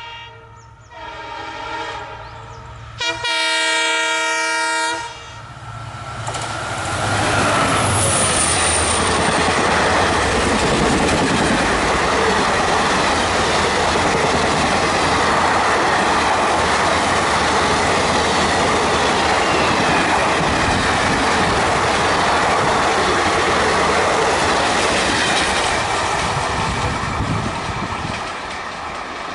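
WDP4D EMD diesel locomotive sounding its horn twice, the second blast louder, then the express train it hauls passing at speed: a loud steady rumble of locomotive and coaches with wheels clattering over rail joints, easing off near the end.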